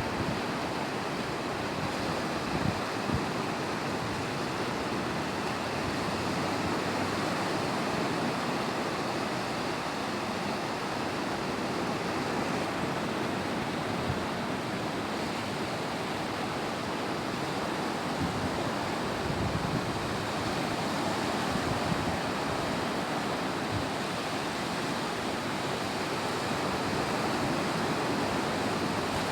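Ocean surf on a beach: waves breaking and washing ashore in a steady, continuous rush.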